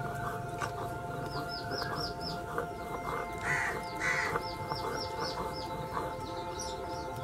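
Birds calling outdoors: runs of quick, high, downward-sliding chirps repeating several times a second, with two louder harsh caw-like calls about halfway through.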